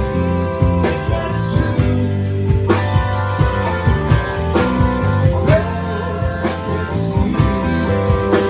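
Live band playing with guitar over a steady bass line, with regular beat strokes.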